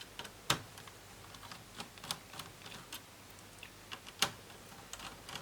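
Laptop parts being handled on a bench: scattered light plastic clicks and taps, with two sharper knocks about half a second and just over four seconds in.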